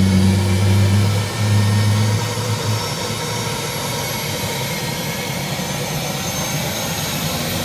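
Helicopter's turbine engine running as it starts up, a steady jet-like drone with a thin high whine that climbs slowly. A low hum sounds for the first two or three seconds, then drops away.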